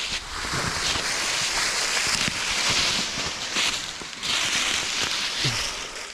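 Dry leaves and brush rustling and crackling close to the microphone, with many small sharp cracks and no engine running.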